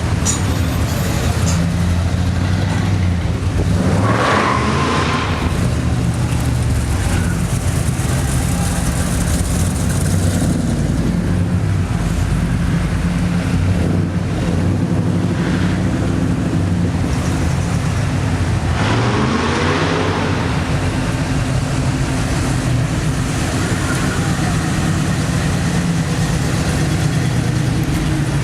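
Classic car engines running steadily at low speed, with two louder moments where a car's engine swells and changes pitch, about four seconds in and again about twenty seconds in.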